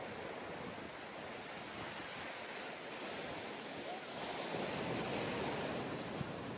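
Sea surf washing onto a sandy beach: a steady hiss of breaking waves that swells louder about four seconds in as a wave comes in.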